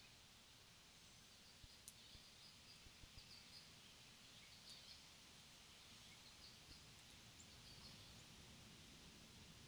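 Near silence: faint outdoor ambience with scattered faint, short, high chirps from small birds and a few soft ticks.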